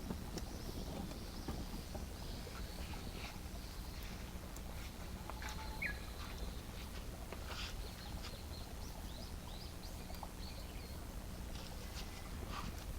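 Wood campfire crackling faintly, with scattered small pops and clicks, over a low steady hum. Faint bird chirps come and go in the background.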